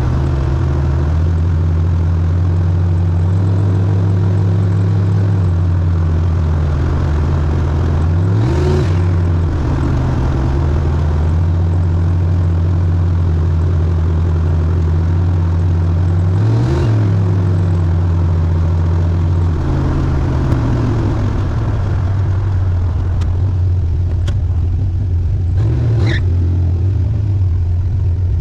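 Turbocharged Chevrolet Biscayne's engine droning steadily under way. Its note dips and climbs back briefly twice, about a third of the way in and again past halfway.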